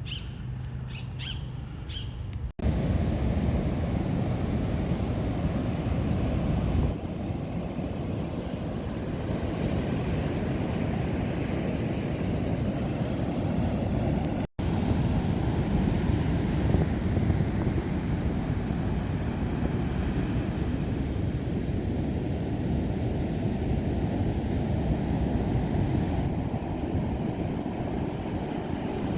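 Birds chirp briefly. After a sudden cut, heavy ocean surf breaks on the beach, a loud, steady wash of noise mixed with wind on the microphone.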